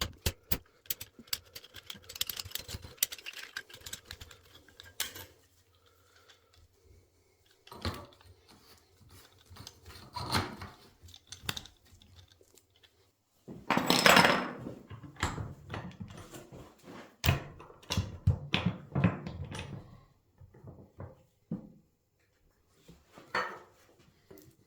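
Metal parts and hand tools clinking and knocking on a bench during rebuilding of a motorcycle fork leg: irregular clicks and handling noises with short pauses, and a louder clattering burst about halfway through.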